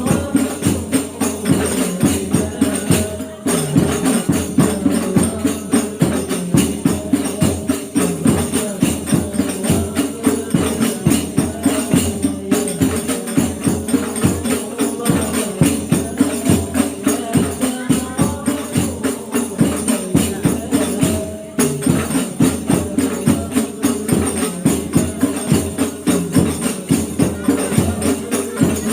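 Hadroh ensemble of hand-struck rebana frame drums playing a fast, steady rhythm to accompany sholawat.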